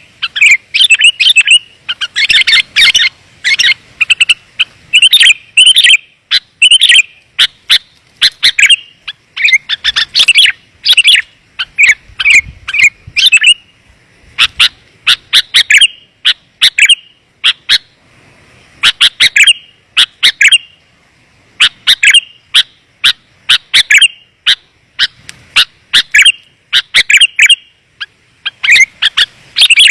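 Sooty-headed bulbul (kutilang) calls: rapid, clear chirps in quick clusters, one after another with only short gaps. This is a bulbul lure call, used to draw wild bulbuls in.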